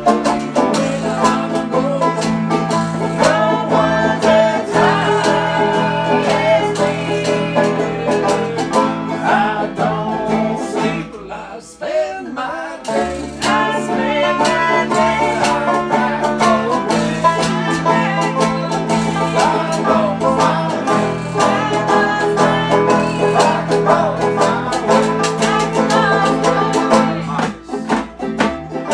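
A band playing a song straight through as a studio take, with a short lull about twelve seconds in.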